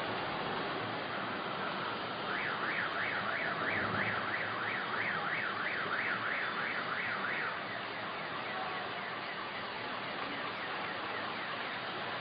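A car alarm warbling, its tone sweeping up and down about two to three times a second, then fading out about seven seconds in. Under it is a steady rushing noise of wind.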